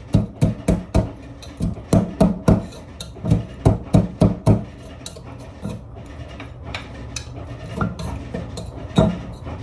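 Pestle pounding chili peppers and garlic in a mortar for thum: quick runs of sharp knocks, three to four a second, for about the first four seconds, then lighter, scattered strokes and one harder strike near the end.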